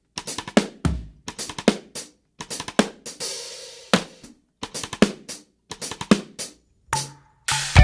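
Drum kit playing a steady rock beat of bass drum, snare and hi-hat, with a cymbal crash about three seconds in and a brief break in the beat near the end.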